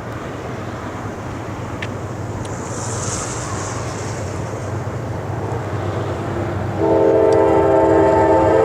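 Diesel locomotive horn sounding one long blast of several notes together, starting about seven seconds in, over the low steady running of an approaching train.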